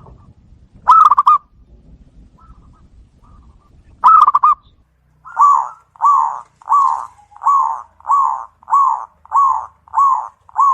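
Zebra doves (perkutut) cooing. Two short trilled coos come a few seconds apart, then a steady run of about nine coos, evenly spaced about half a second apart.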